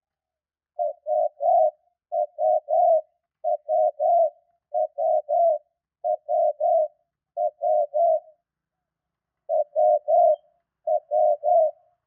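Spotted dove cooing: a low three-note phrase repeated about eight times, each phrase about a second long with short gaps between, and one longer pause partway through.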